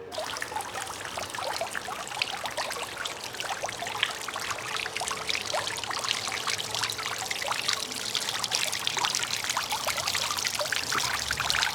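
Running water splashing and trickling steadily, a dense patter of small splashes, as from a fountain or water spilling into a pool.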